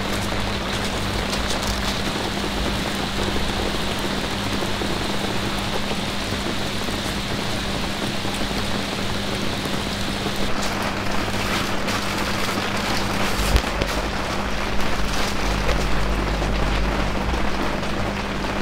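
Rain falling steadily, with sharper individual drops standing out from about ten seconds in.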